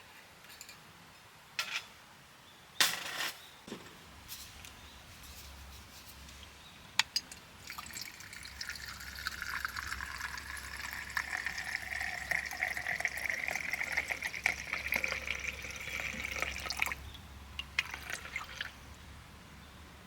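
Liquid poured steadily into a cup for about nine seconds, the pitch of the pour rising slowly as the cup fills. A couple of sharp clicks and knocks come before it, and a few light clinks just after it stops.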